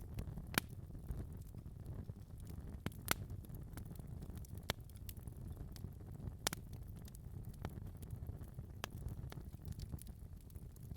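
Wood fire burning in a fireplace: a steady low rumble of flames with sharp, irregular pops and crackles of burning logs.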